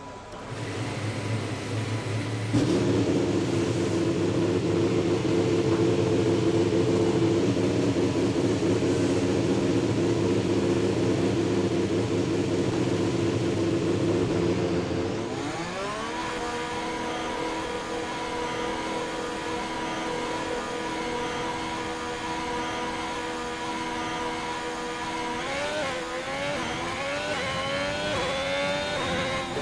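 Ferrari Formula 1 power unit (2021, 1.6-litre turbocharged V6) fired up and held at a steady, loud fast idle. About halfway through it rises to a higher steady pitch, and near the end it is revved in quick rising-and-falling blips.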